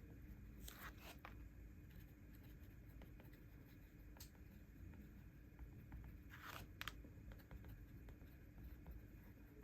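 Faint paper-handling sounds at a desk: two short, scratchy rustles of paper, about a second in and again about six and a half seconds in, with small light ticks between them.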